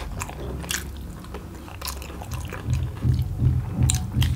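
Close-up chewing and wet mouth smacks of people eating steamed chicken momo dumplings. Past the middle, a low rhythmic thudding comes in at about three beats a second.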